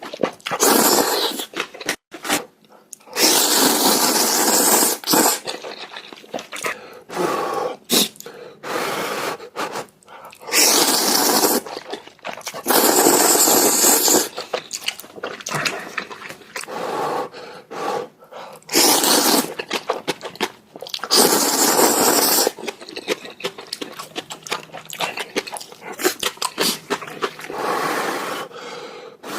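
Someone eating noodles close to the microphone. There are several long, noisy slurps of a second or two each, with chewing and wet mouth clicks between them.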